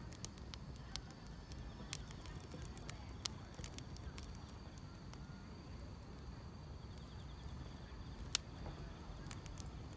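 Wood fire crackling with scattered sharp pops, the loudest a little past eight seconds in, over a low rumble. Field insects chirring faintly and steadily behind it.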